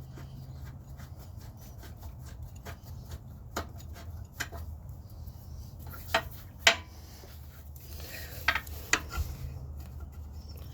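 Scattered metallic clinks and taps of hand tools and bolts against the car's engine mount and bracket, with some rubbing. The two loudest clinks come close together about six seconds in, and a few more follow near the nine-second mark, over a steady low hum.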